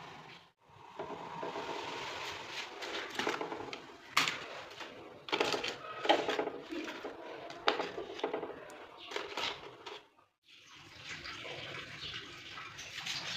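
Water running from a tap with dishes and utensils clinking and knocking now and then; the sound drops out twice for a moment.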